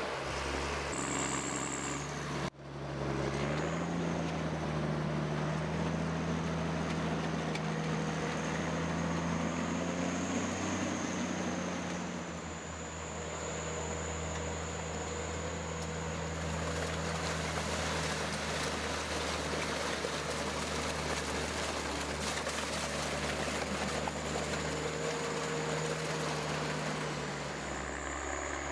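An engine-driven machine running steadily, with a low hum and a thin high whine, broken briefly by a sudden cut about two and a half seconds in.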